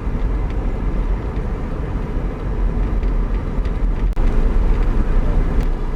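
1988 Ford Fiesta Mk2 1.1 four-cylinder engine running and road noise heard from inside the cabin as the car drives slowly, a steady low rumble.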